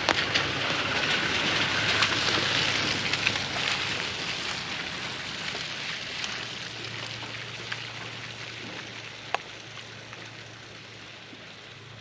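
Rain pattering with scattered sharp drops, fading out gradually, over a low steady hum.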